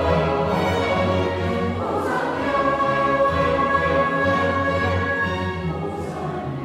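Mixed choir singing with chamber orchestra in a sacred Mass setting, a full sustained passage of held chords that eases off slightly near the end.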